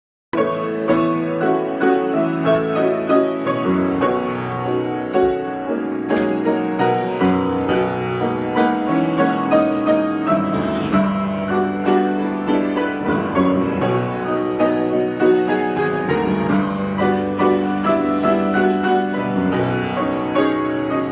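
Solo piano improvisation playing continuously: a steady flow of struck notes over held lower notes.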